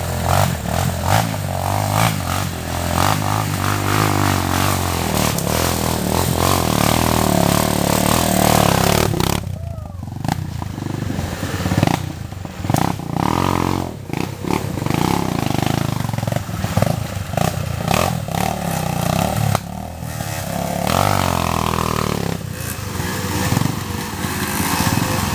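Dirt bike engine revving up and down under riding load, its pitch rising and falling as the throttle opens and closes, over a steady rushing noise. The engine eases off briefly about ten seconds in.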